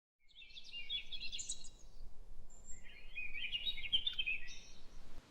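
A songbird singing two fast, warbling phrases, the second starting about two and a half seconds in, over faint outdoor background noise.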